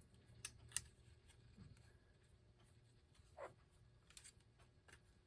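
Near silence with a few faint clicks and light rubbing: rubber motor mounts being worked into the slots of a record player's motor plate by hand.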